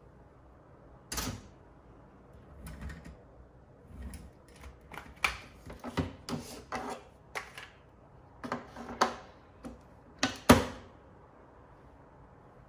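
A string of irregular clicks and knocks, about a dozen, like small hard objects being handled and set down. One louder knock comes about a second in and the loudest near the end.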